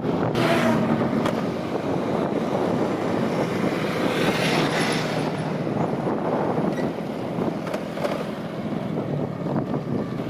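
Steady highway road and vehicle noise with wind on the microphone, with two louder swells, about half a second and four seconds in.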